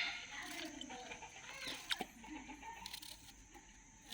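Faint clucking of chickens, a few short calls, with one light click about two seconds in.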